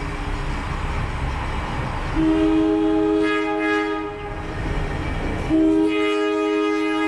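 Diesel locomotive air horn sounding two long blasts, the first about two seconds long starting about two seconds in, the second starting about five and a half seconds in and still held at the end, over the low rumble of the moving train.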